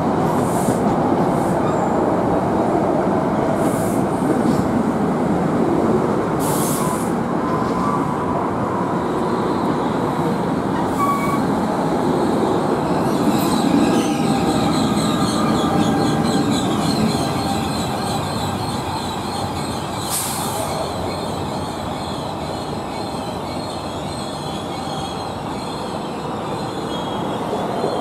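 NJ Transit push-pull commuter train running past along the platform, its cars rumbling steadily over the rails and the electric locomotive at the rear passing about halfway through. A high wheel squeal sets in about nine seconds in, and the rumble fades gradually in the second half as the train draws away.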